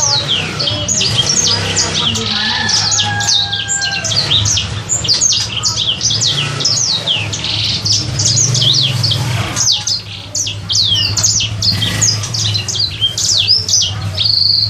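Sanger bird calling, a rapid run of short, high, downward-sliding notes with hardly a break: a young kept bird practising its song. A steady low hum runs underneath.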